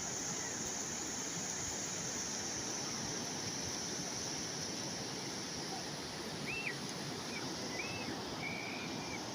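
Calm sea waves washing steadily, an even rushing noise with no single breaking crash. A few short high chirps come in the second half, like small bird calls.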